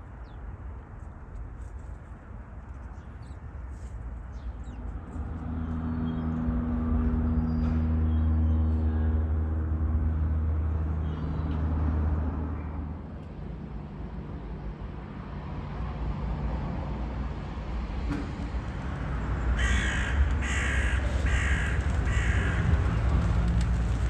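Street ambience with a low traffic rumble. A vehicle engine hums low and steady through the middle. Near the end a bird gives a loud series of about six calls, roughly two a second.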